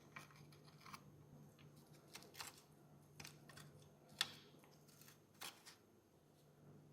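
Faint scattered clicks and taps from handling the small metal and plastic parts of a 1:18 scale die-cast Volkswagen Beetle model, the sharpest about four seconds in, over a steady low hum.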